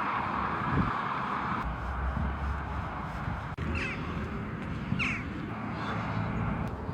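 A crow cawing, two short calls about a second apart in the second half, with a fainter one after, over a steady background rush.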